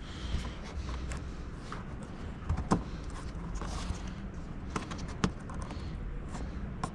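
Scattered clicks and light knocks of hands handling car parts and trim, with two sharper knocks, one near the middle and one about three-quarters through, over a low steady hum.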